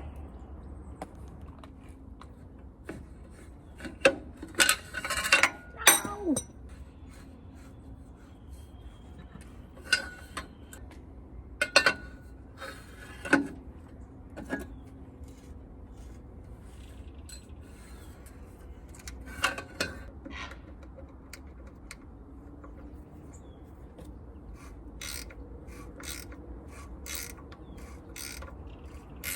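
Hand tools working on metal parts of an old generator: scattered clanks and scrapes, the loudest cluster about four to six seconds in, then a run of even clicks about two a second near the end, like a ratchet wrench working a nut. A steady low hum runs underneath.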